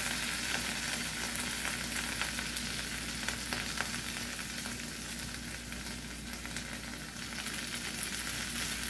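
Steady sizzling from baked potatoes and veggies in a hot cast-iron skillet, with the light scrape and tap of a spoon as chili is ladled over them.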